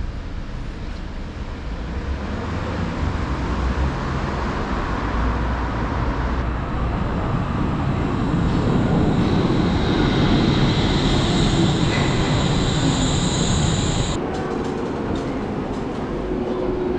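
Wuppertal Schwebebahn suspended train running along its overhead rail: a building rumble with a high whine rising over it from about 8 seconds in. The sound changes abruptly about 14 seconds in, leaving a steadier low hum.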